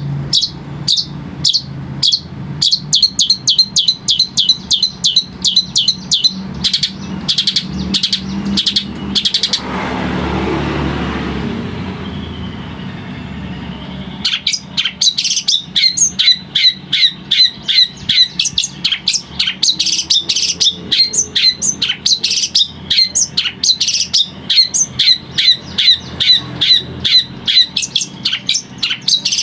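Long-tailed shrike (cendet) singing a fast run of repeated high calls, about three a second. About a third of the way in, the calls break off for roughly four seconds while a broad rushing noise rises and fades.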